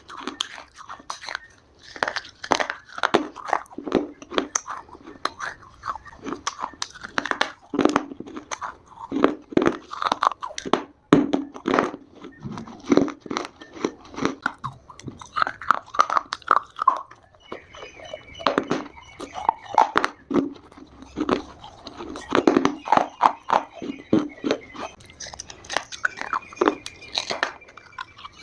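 Close-miked biting and chewing of dry Multani mitti (Fuller's earth clay) chunks: a dense run of sharp, brittle crunches.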